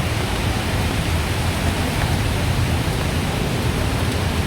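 Steady, even rush of heavy rain and running floodwater, with a low rumble underneath.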